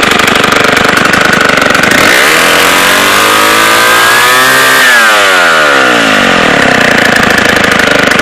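Vintage Homelite 770D two-stroke chainsaw running. It idles unevenly, revs up smoothly from about two seconds in, then drops back to a rough idle about five seconds in.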